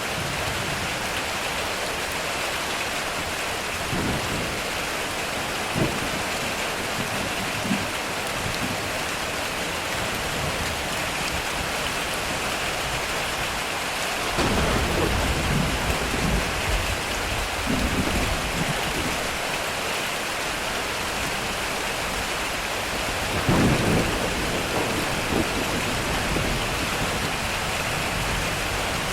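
Heavy rain beating steadily on a metal roof, with thunder rumbling twice, once about halfway through and again near the end.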